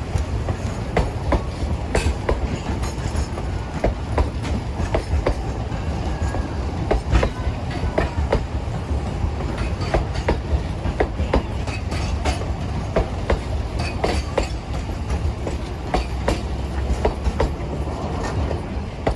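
Durango and Silverton narrow-gauge train rolling along the track: a steady rumble with the clickety-clack of wheels over rail joints, coming at uneven intervals throughout.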